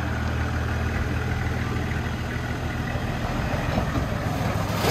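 Four-wheel-drive's engine running low and steady as the vehicle crawls slowly over an obstacle, with a rushing noise swelling near the end.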